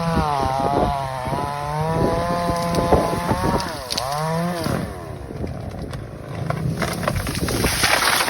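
A small petrol engine revving up and down, its pitch dipping and climbing again about four seconds in. About five seconds in it fades into a fainter, rougher noise that swells again near the end.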